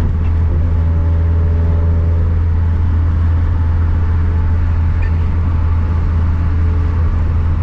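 Greddy-turbocharged 2.0-litre flat-four engine of a 2013 Scion FR-S, with a catless front pipe and quad-tip catback exhaust, running at a steady engine speed under way. It is heard from inside the cabin as a steady low drone.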